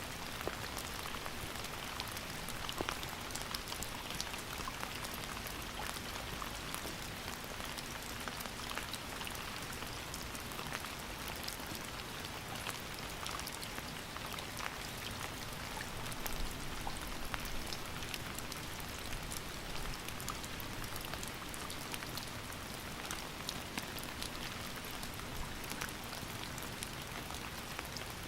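Steady rain falling on a surface, with many individual drops pattering and ticking over an even hiss.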